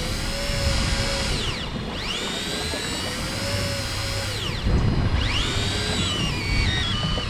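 Electric fishing reel's motor whining as it winds in line: the whine rises, holds steady and falls away three times, the last time stepping down in stages. A steady low rumble runs underneath.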